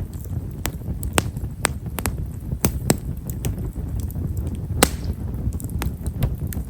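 Wood fire of himeshara (Stewartia monadelpha) logs crackling with fine, small pops at irregular intervals, the sharpest about five seconds in, over a steady low rumble.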